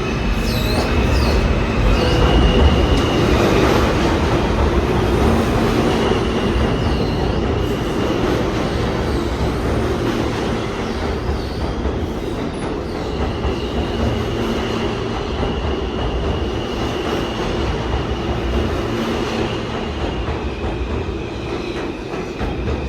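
New York City subway train running on the track: a loud continuous rumble of wheels on rail, with short high wheel squeals in the first second or so and a thin high steady squeal that comes and goes.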